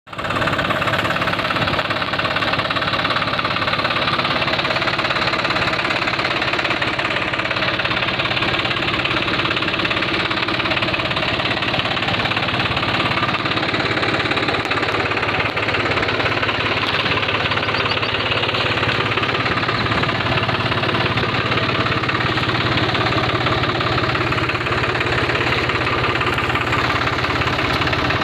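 An engine running steadily with a fast, even knocking pulse.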